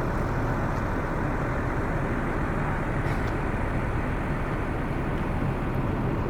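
Double-decker bus on the move heard from inside the cabin: a steady low engine and road rumble with no change in pitch or level.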